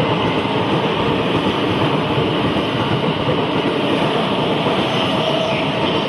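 E217-series electric train running steadily, a loud, even noise of wheels on rails and car body.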